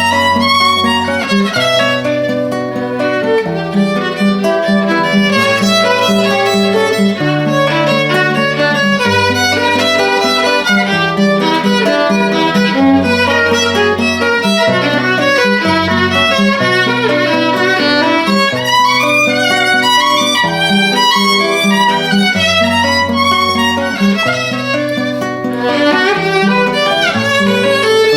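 Violin playing a minuet melody over a second instrument's accompaniment, with held low bass notes changing every second or two.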